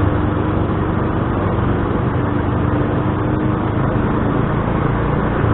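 Motor scooter running steadily while riding, with road and traffic noise around it.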